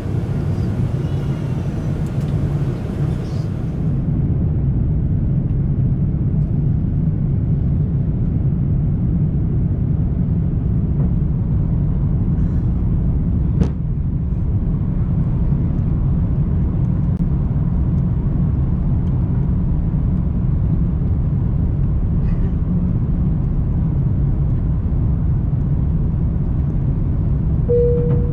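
Airbus A340-300 engines at takeoff power, heard from inside the cabin as a steady, loud rumble, with one sharp click midway and a short tone near the end.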